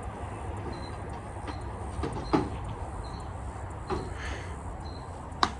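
Frog chirping: short high chirps repeating roughly once a second. Two sharp knocks stand out over them, about two seconds in and near the end.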